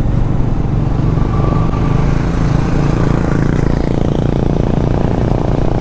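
Bajaj Dominar motorcycle engine running steadily under way, with a steady hiss of road and air noise over it.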